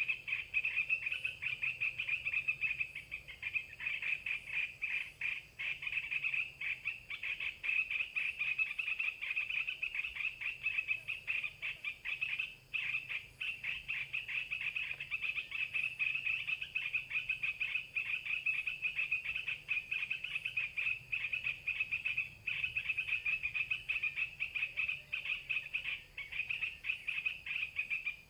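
A continuous animal chorus of rapid, high-pitched trilling, wavering in level but never pausing.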